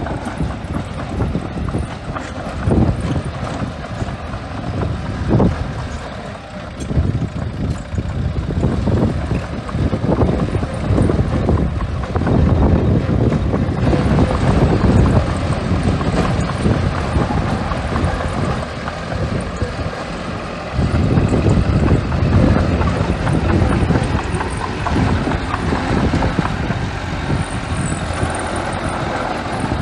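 Small bulldozer's diesel engine working as it pushes and spreads sand, the engine note swelling and easing with the load. It dips briefly about two-thirds of the way through, with a few sharp knocks along the way.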